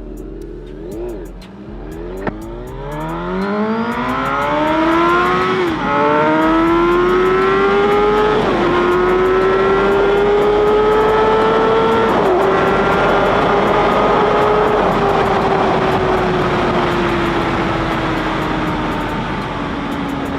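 Motorcycle engine blipped a few times, then accelerating hard through the gears. The pitch climbs steadily and drops briefly at each of three upshifts, then holds at speed and slowly falls near the end, under heavy rushing wind noise.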